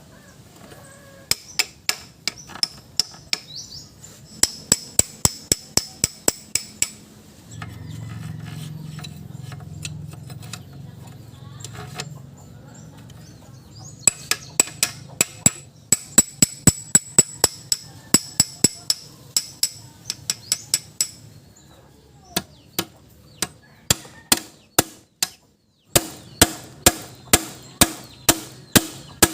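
Hammer striking metal repeatedly, about three sharp ringing blows a second in runs with short pauses, as parts of an Isuzu 4BC2 manual transmission are tapped into place during reassembly.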